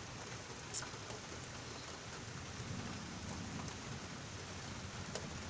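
Hard rain pouring down in a steady hiss, with a couple of sharp taps, about a second in and near the end.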